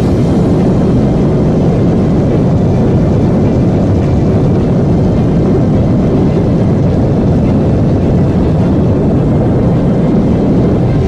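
Motorcycle running at a steady speed: a loud, even engine rumble mixed with rushing noise, holding constant without revving up or down.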